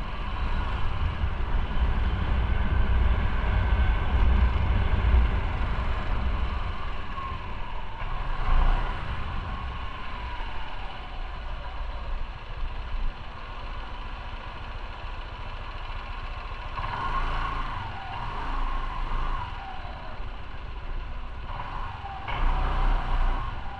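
Motorcycle riding sound from on the bike: engine running under a heavy low rumble of wind and road noise, which eases after about seven seconds, with the engine pitch rising and falling twice as it speeds up and slows.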